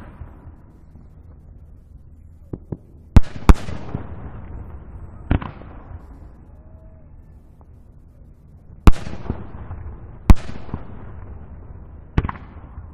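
Aerial fireworks shells bursting about a kilometre away across the water: a string of sharp booms, each trailing off in a long rolling rumble. The loudest come as pairs about three seconds in and about nine to ten seconds in.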